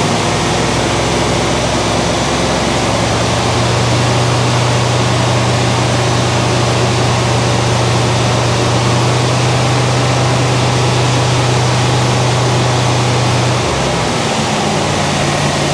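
1967 Chevelle SS 396 big-block V8, freshly built, running on its first fire-up with a steady low drone and a loud rushing exhaust. The engine note rises slightly about three seconds in and drops back near the end.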